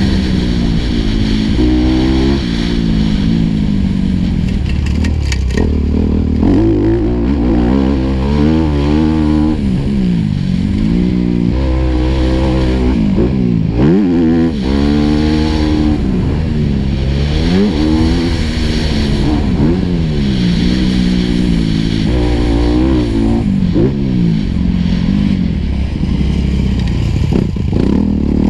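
Four-stroke motocross bike engine heard on board, its pitch climbing and dropping again and again as the throttle is opened and closed through the gears.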